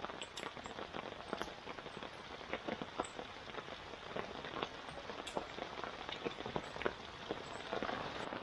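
Steady rain, with many irregular drops tapping on the tarp overhead.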